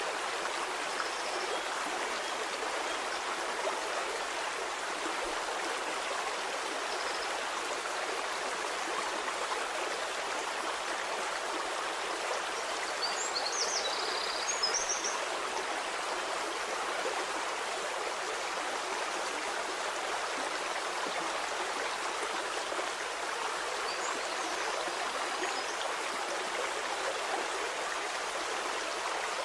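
Stream water flowing steadily, an even rushing and babbling, with a brief cluster of faint high chirps about halfway through.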